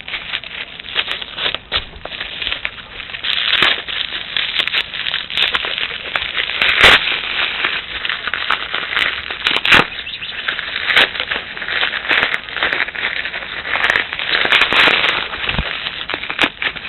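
Plastic wrapping crinkling and crackling in dense, irregular clicks as a paintball barrel is unwrapped by hand, with a few louder snaps about seven and ten seconds in.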